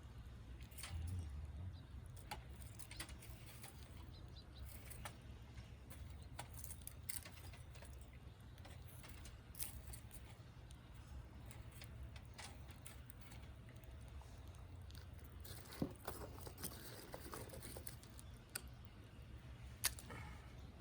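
Wood fire in a fire pit crackling: irregular sharp pops and ticks, two louder pops near the end, over a steady low rumble.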